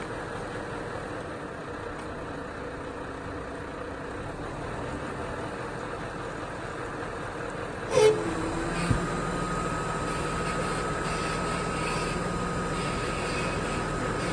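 Steady machinery noise, then a sudden loud clunk about eight seconds in, a second knock just after, and a machine running on with a steady whine over a low hum.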